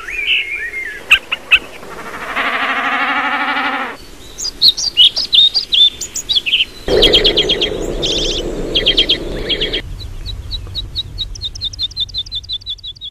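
A string of short bird-call recordings cut one after another: assorted chirps and whistles, a wavering lower call about two seconds in, and near the end a fast, even series of high chirps, about five a second.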